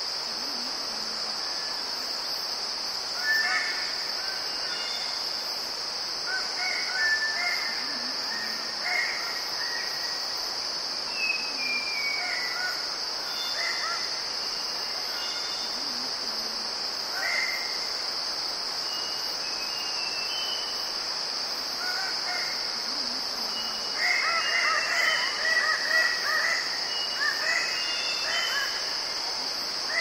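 A group of red birds-of-paradise giving coarse calls, mixed with squeaky 'weep' calls, with a dense flurry of calls about four-fifths of the way through. A steady high insect drone runs underneath.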